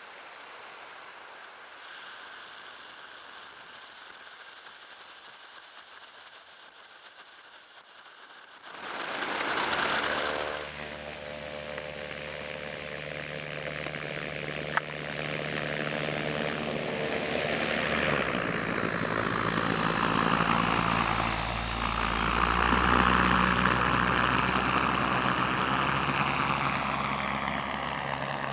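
Propeller of an ultralight trike driven by a 20 kW Rotex REX30 electric motor: faint hiss at first, then the propeller starts suddenly about nine seconds in with a brief louder surge, settling into a steady hum with a thin high electric whine that grows louder.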